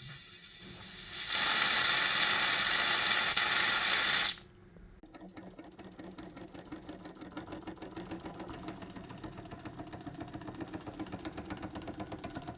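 1903 Ernst Plank toy steam engine: a loud steady hiss of steam that cuts off suddenly about four seconds in, then the little engine running with a fast, even ticking that slowly grows louder. Its boiler is overfilled with water, which the owner says still lets it work.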